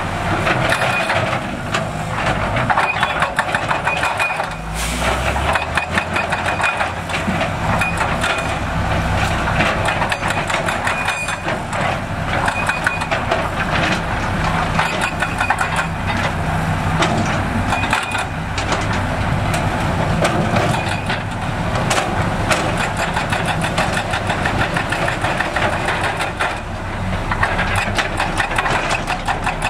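Heavy diesel construction machinery working: a steady engine note with continual metallic clattering and rattling over it.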